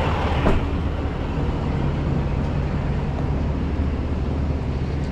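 Flatbed tow truck's engine idling with a steady low hum, with a single click about half a second in.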